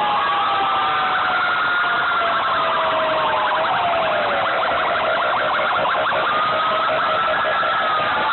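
Several fire truck sirens sounding at once, their wailing tones overlapping as they slowly rise and fall, with a fast pulsing siren tone through the middle.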